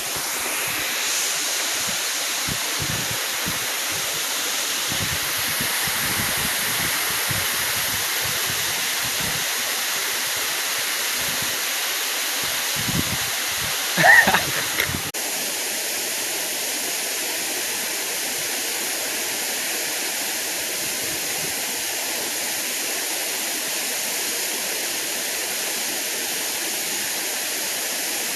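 A waterfall's rushing water, a steady full roar. Until about halfway, low thuds come and go under it, and just before they end there is a brief louder pitched call. Then the sound switches suddenly to a smoother, even rush.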